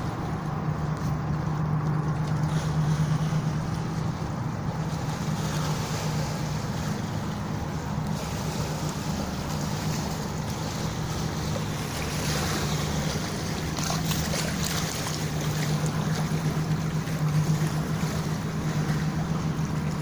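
An engine running with a steady low drone, with wind noise on the microphone.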